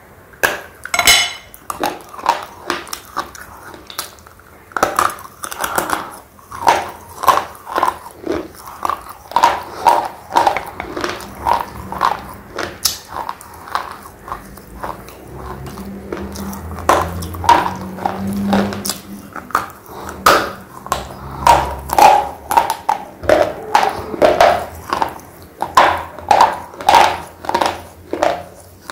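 Close-up biting and chewing of a thick red slate pencil: a run of sharp, dry crunches, about one to two a second, with a short lull near the middle.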